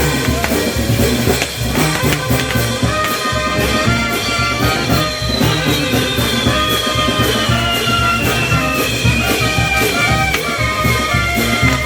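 Brass band playing festival music, with trumpets and trombones holding notes over drums keeping a steady, busy beat. Through the middle a high tone slowly falls in pitch above the band.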